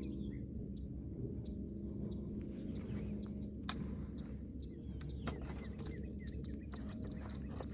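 Outdoor ambience: a steady high insect hum, faint bird chirps, and two light clicks partway through.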